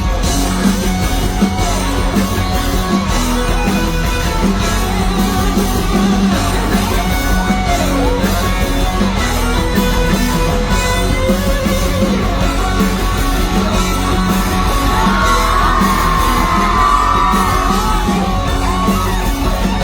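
Loud live pop-rock music with a steady beat, in a large hall, with yells and whoops over it.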